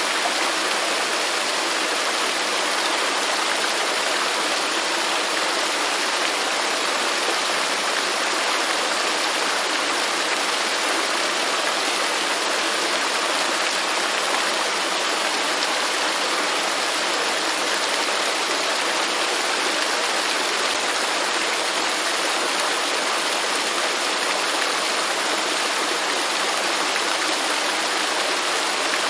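Waterfall rushing, a steady, even roar of falling water without a break.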